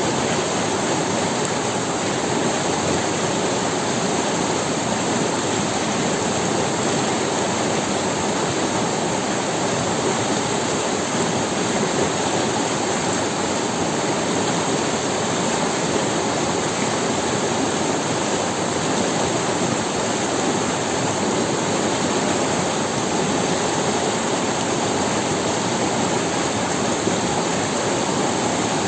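A river running over stones: a steady, even rushing of water that does not let up.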